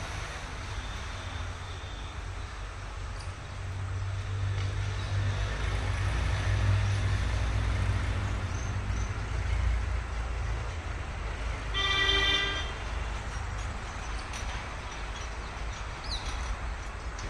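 A vehicle engine running with a low rumble that grows louder through the middle, and one short horn blast about twelve seconds in.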